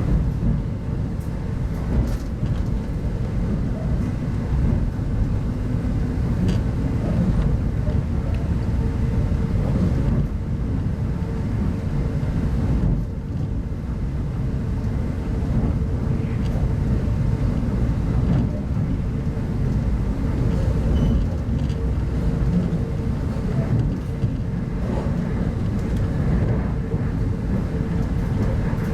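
Steady rumble of a 25T-series passenger coach running along the track, heard from inside the carriage, with a steady hum and scattered faint clicks over it.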